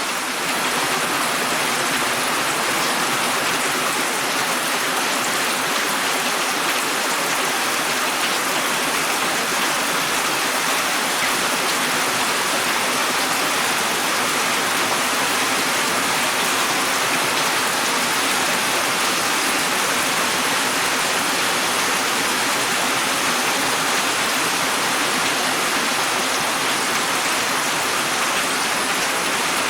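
Steady rain, an even wash of noise that holds constant throughout.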